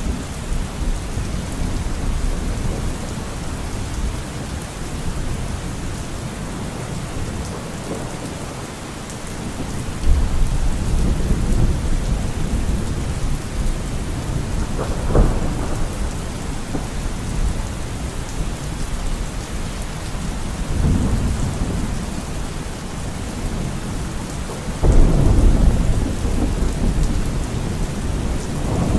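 Steady heavy rain with rolling thunder: low rumbles swell about a third of the way in, a sharper clap about halfway, and a loud rumble near the end.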